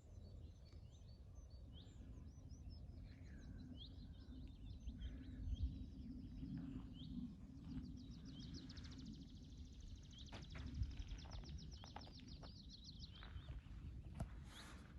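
Songbirds singing: scattered short chirps and whistles, with a long rapid trill through the middle, over a low steady rumble.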